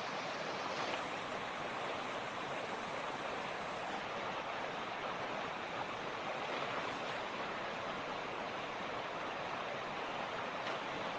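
Mountain creek (torrent) water rushing steadily, an even, unbroken sound.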